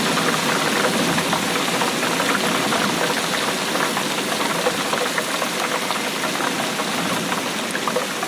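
Steady rainfall, a dense, even patter of many drops.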